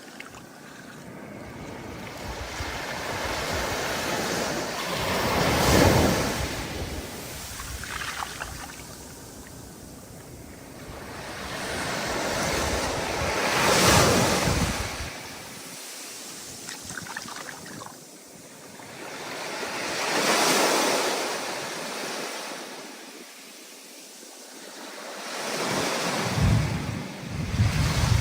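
Ocean surf: waves rolling in and breaking in slow surges, one about every seven seconds, each building to a crash and then washing back.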